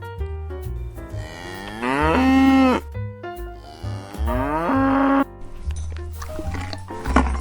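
A cow mooing twice, two long calls that drop in pitch at the end, over light background music.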